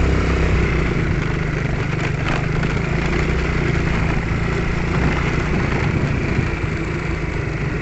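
A vehicle engine runs steadily while travelling along a rough road, under a steady rush of road and wind noise. A low part of the engine note drops away about a second in.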